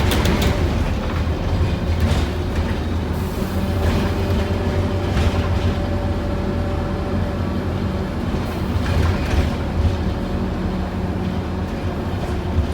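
Scania N230UD OmniCity bus's five-cylinder diesel engine running under way, heard from inside the passenger saloon: a steady low rumble with a faint whine over it, and road noise.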